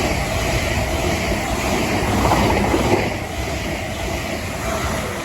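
A South Western Railway train running through the station, rumbling loudly and then fading away from about halfway through as it moves off.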